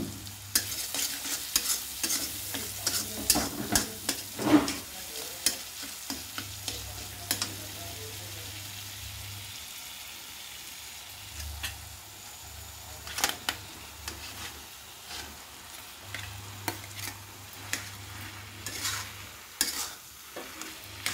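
Spice and tomato masala sizzling in oil in an iron kadhai, stirred with a metal spatula that scrapes and knocks against the pan in frequent sharp clicks over the steady frying hiss.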